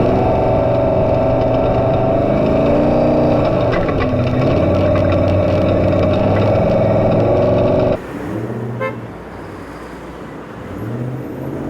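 Race truck engine running hard at high revs, its pitch dipping briefly about three seconds in and climbing back. About eight seconds in it cuts to a quieter engine sound that revs up again near the end.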